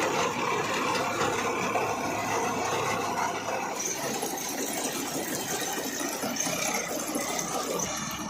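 Tractor engine running with a steady metallic rattle of working machinery; the sound changes slightly about four seconds in.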